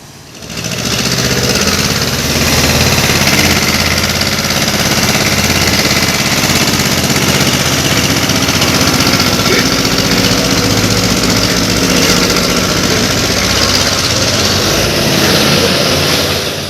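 Tractor diesel engines running hard and steadily under heavy load in a tractor tug-of-war, coming up sharply about half a second in.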